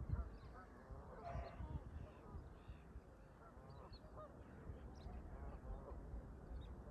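Canada geese honking repeatedly, many short calls overlapping, with faint high chirps from other birds.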